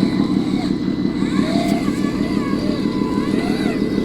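An RC model truck's diesel engine sound running steadily with a fast, even throb. Faint, short high chirping glides are heard over it.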